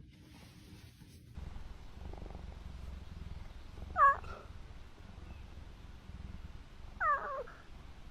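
Wild cat vocalising: a low rumbling purr starts about a second and a half in, broken by two short meow-like calls about three seconds apart, the first the louder.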